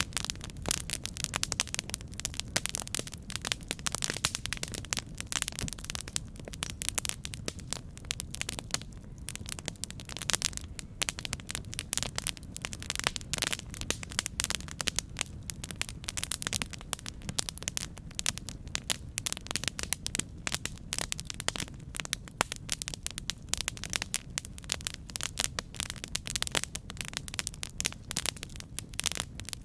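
Campfire burning: dense, irregular crackling and popping of burning wood over a low steady rumble of the flames.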